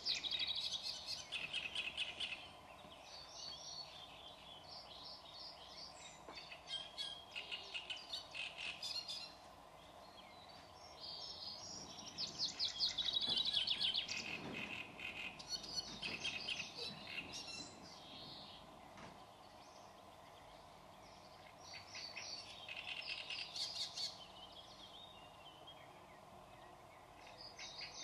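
Songbirds singing and chirping in repeated bouts of quick high notes, a few seconds apart, over a faint steady background hum.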